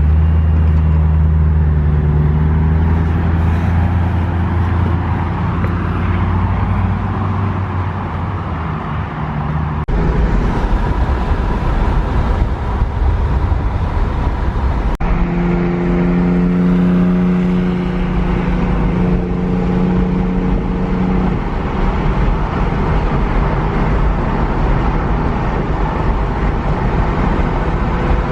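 Car engine running, with the pitch climbing at the start as it revs. The sound changes abruptly about ten and fifteen seconds in.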